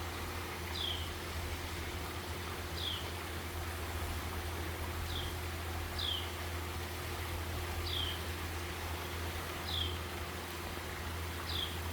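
A small bird repeating a short, high call note that falls in pitch, seven times at about two-second intervals, over a steady low hum.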